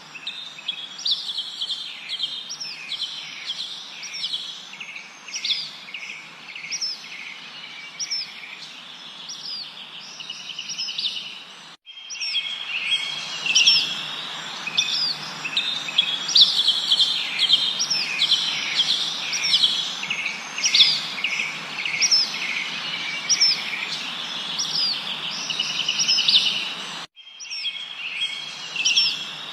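A dense chorus of many small birds chirping and trilling rapidly over a steady background hiss. The sound drops out abruptly for an instant twice, about twelve seconds in and again near the end.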